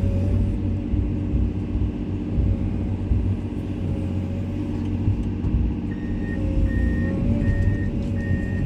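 Komatsu excavator's diesel engine running steadily, with a warning alarm beeping four times in a steady rhythm over the last few seconds.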